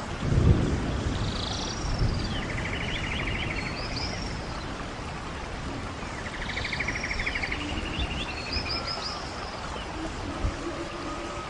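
Rainforest ambience: a bird sings the same phrase twice, high arched whistles and a buzzy trill, over a steady hiss. A low rumble about half a second in is the loudest sound.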